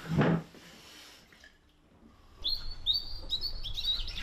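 A small bird chirping: a run of five or six short, high chirps, each sliding up into a brief steady note, starting a little past halfway. A short noise at the very start comes before a quiet stretch.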